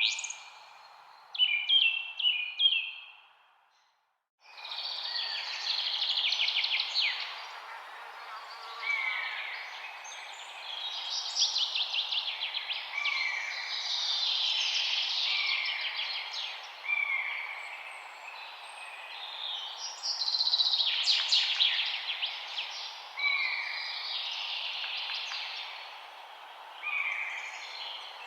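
Many birds singing and chirping together over a steady background hiss. A few seconds in the sound cuts out completely for a moment, then a fuller chorus of overlapping trills and falling whistled notes resumes.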